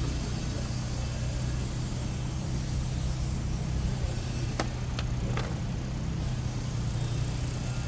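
A steady low mechanical hum, with three light clicks a little over halfway through.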